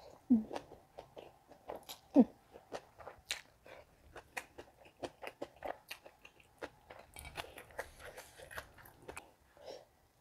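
Close-up chewing of crispy deep-fried salted fish with rice: a steady run of irregular, crisp crunches. Two short hummed vocal sounds come near the start.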